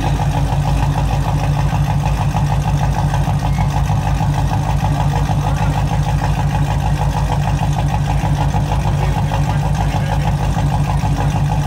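Chrysler 300C's 5.7 Hemi V8 with a stage 2 Comp camshaft idling steadily through long-tube headers and mid pipes. It is running soon after the first startup following the cam install, with the cooling system not yet bled.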